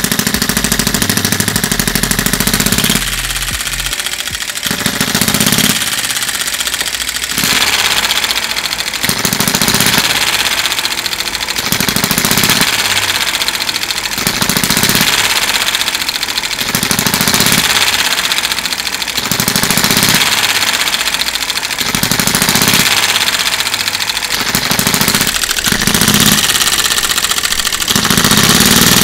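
Miniature 6cc gasoline model engine running with a rapid firing rattle, steady for about three seconds and then swelling and fading in a regular beat about every two seconds.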